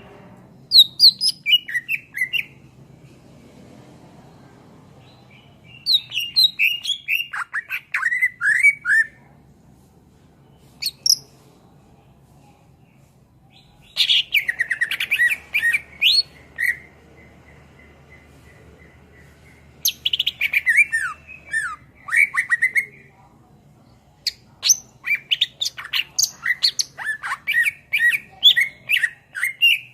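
Cucak ijo (green leafbird) singing in about six bouts of quick, varied high notes and trills, separated by pauses of a few seconds. A faint low hum runs underneath.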